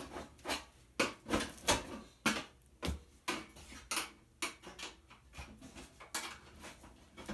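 Irregular sharp metal clanks and knocks, a few a second, some briefly ringing, as a toaster oven's metal housing is forced apart with tools.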